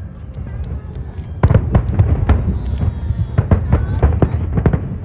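Aerial fireworks bursting in quick succession: many sharp bangs over a low rumble, sparser for the first second and a half and then coming densely.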